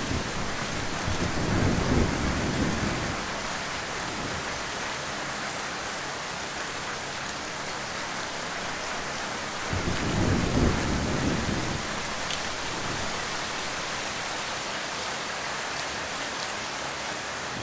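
Heavy rain falling steadily, with low rumbles swelling up twice, about two seconds in and again about ten seconds in.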